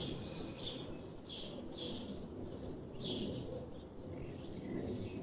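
Small birds chirping: a series of short, high calls, some in quick pairs, with a pause in the middle, over a low steady background rumble.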